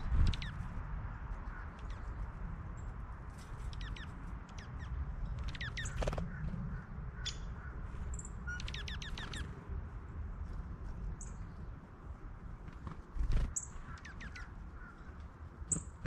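Wild birds at a backyard feeder calling in short, scattered chirps and quick falling notes, over a low rumble. A couple of thumps stand out, about a second in and near the end.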